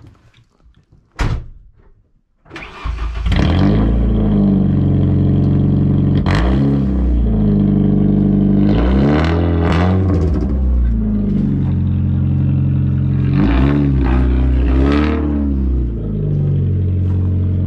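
Straight-piped Ford Escort GT engine cranking and catching about two and a half seconds in, then idling loudly through the open exhaust with several quick revs of the throttle.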